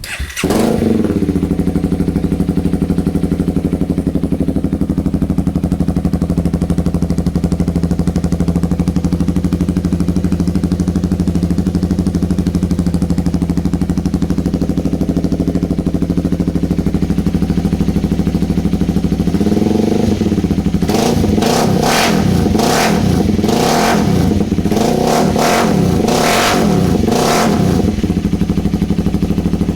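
Honda Rebel 300's single-cylinder engine running through a DanMoto Highwayman slip-on exhaust. It is warmed up and idles steadily, then about two-thirds of the way in it is revved in a string of quick throttle blips.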